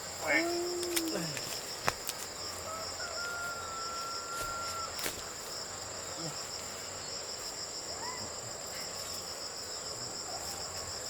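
A steady, high-pitched chorus of crickets trilling without a break. A short pitched call stands out near the start, and a thin held whistle-like note lasts about two seconds in the middle.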